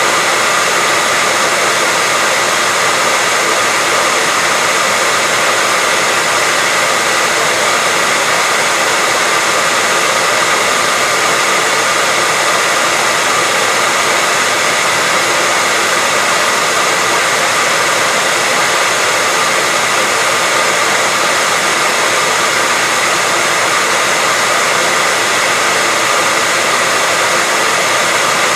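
Hair dryer running steadily: a constant rush of airflow with a faint steady whine of the motor and fan.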